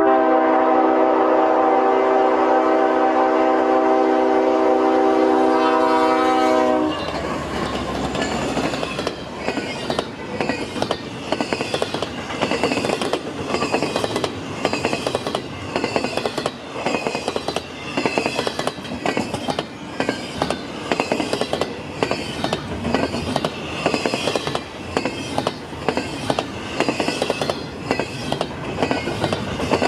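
Diesel locomotive air horn sounding one long steady blast that cuts off about seven seconds in. Then the train rolls past with a steady rhythm of wheels clicking over the rail joints (clickety-clack).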